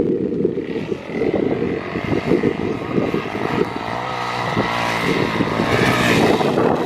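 Dirt bike engine revving hard under throttle as the bike rides toward and over the jump, the engine note easing briefly about two-thirds of the way through before picking up again.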